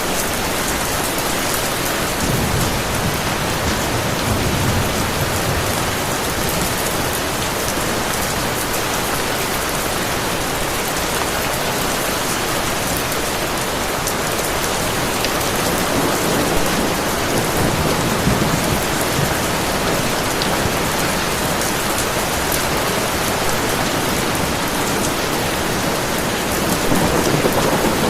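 Heavy rain falling steadily, with low rumbles of thunder swelling up a few times.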